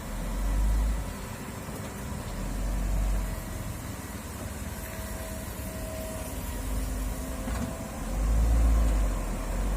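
Hydraulic excavator engine running under work, its low rumble swelling three times: near the start, about three seconds in, and again near the end.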